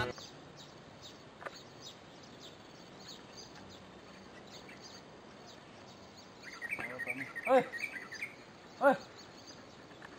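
Open-air rural ambience with a bird chirping over and over in short high notes. Two short, loud calls stand out near the end.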